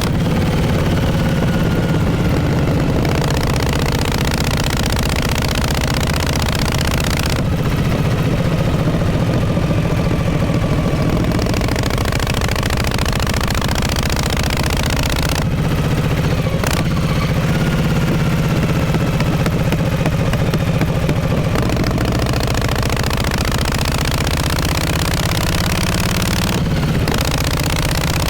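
1948 Harley-Davidson Panhead's V-twin engine running through its exhaust. The low, loud note shifts several times as the engine speed changes.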